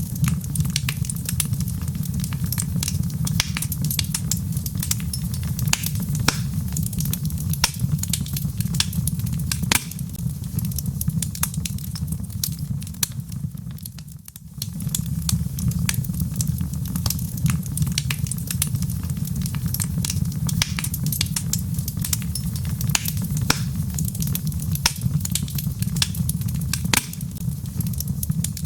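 Wood logs burning in a fireplace, crackling with frequent sharp pops over a steady low rumble of the flames. The sound dips briefly about halfway through, then carries on.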